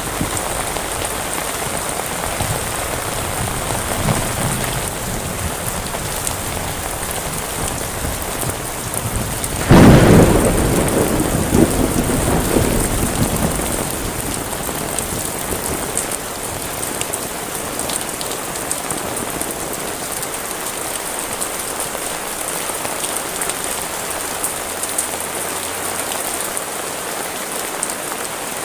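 Heavy rain falling steadily, a dense even hiss. About ten seconds in, a sudden loud clap of thunder rumbles and fades over a few seconds.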